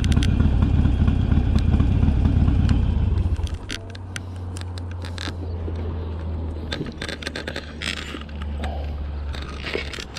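Harley-Davidson Sportster's V-twin engine running with a loud, lumpy low beat, then settling to a quieter steady idle about three and a half seconds in, which cuts off near the end. Scattered scrapes and clicks sound over the idle.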